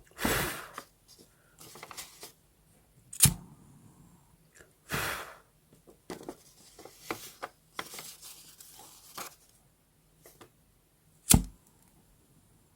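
Paper being handled for a journal: a few rustling, tearing swishes with sharp taps and small clicks between them, the loudest swishes just after the start and about five seconds in, and sharp taps a little over three seconds in and near the end.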